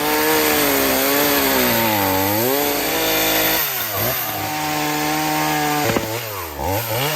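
Chainsaw running at high revs and cutting into a pine trunk, its engine pitch sagging under load and recovering about three times.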